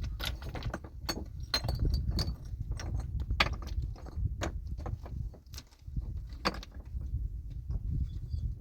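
Stones knocking and clattering against each other in a run of irregular sharp clicks and knocks, over a steady low rumble.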